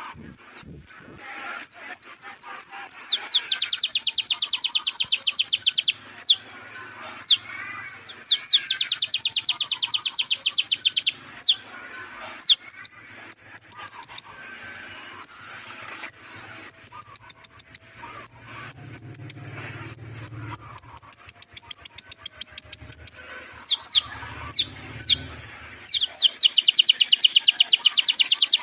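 A sunbird of the kind Indonesian bird keepers call 'kolibri ninja' singing: fast, high-pitched trills of rapid downward-sweeping notes, each run lasting two to three seconds, broken by single sharp whistles and quick sweeping notes.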